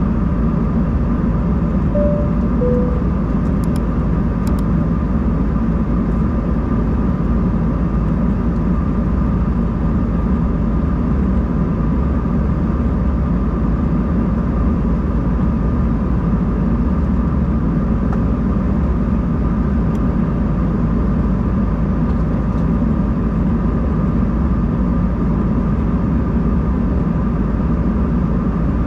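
Steady engine and airflow noise inside the cabin of an Embraer 190-E2 airliner, a constant low rush with a faint steady whine. About two seconds in, a two-tone cabin chime sounds once, high then low.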